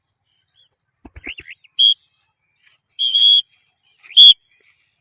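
Three loud, high-pitched whistles, each held at one steady pitch, the second the longest. A few faint chirps come just before the first.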